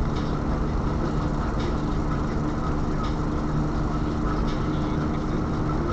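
A moving vehicle: a steady engine drone with road and running noise, unchanging throughout.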